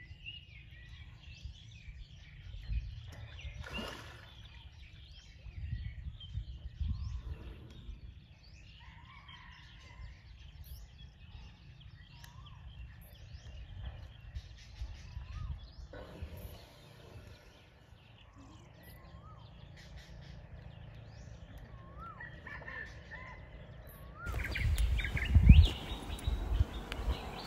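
Birds chirping and calling over an outdoor background, with bursts of low rumbling noise. Near the end the background turns louder and noisier, with a single heavy low thump.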